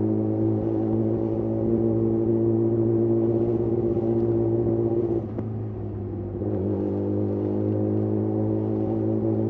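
Yamaha YZF R6's inline-four engine running through a de-catted Akrapovic slip-on exhaust, holding a steady note while riding. The sound dips briefly about five seconds in, then picks back up to the same steady note.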